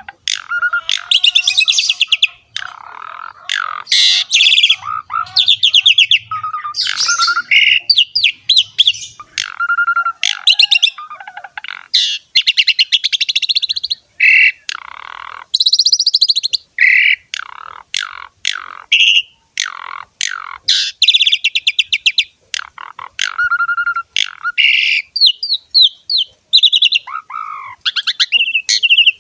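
Asian pied starling (jalak suren) singing a long, varied song of quick phrases: rapid rattling trills mixed with clear whistled notes, with short pauses between phrases.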